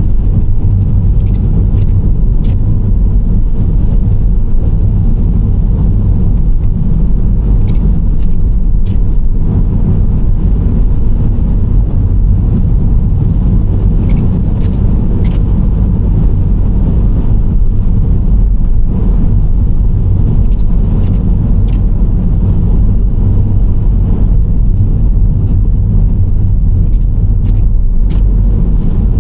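Nissan Serena C25 minivan driving at a steady pace, with a continuous low road-and-engine rumble. Short faint clicks come in small groups every few seconds.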